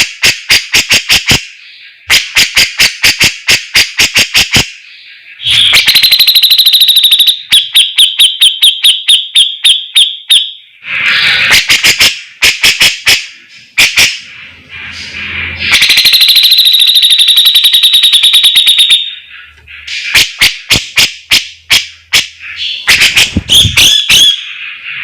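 Grey-cheeked bulbul (cucak jenggot) singing loudly and without pause, in rapid strings of harsh, chattering notes at about five a second. These alternate with long buzzy trills held at one pitch, about five seconds in and again about fifteen seconds in.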